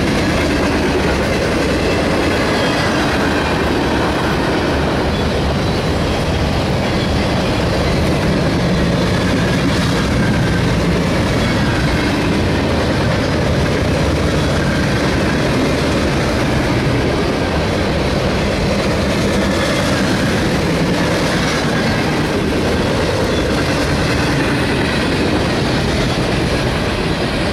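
Freight train of refrigerated boxcars rolling past close by: a steady rumble and rattle of steel wheels on the rails.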